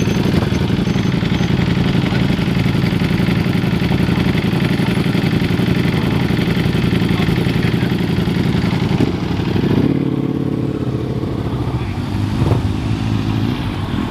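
A vehicle engine running close by with a steady low drone. About nine seconds in the pitch rises as it revs, then it settles to a lower, slightly quieter run.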